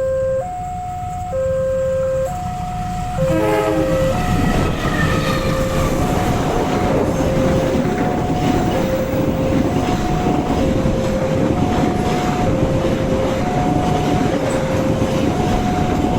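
Railway level-crossing warning alarm sounding in a steady alternating two-tone pattern. About three seconds in, a train arrives and passes close by with a loud rumble and wheel noise, the alarm still sounding under it.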